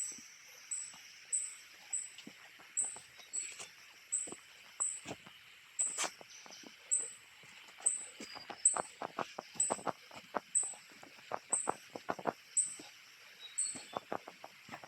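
Tropical rainforest ambience: a thin, high chirp repeating evenly about every half second over a steady insect drone, with many irregular light clicks and crackles.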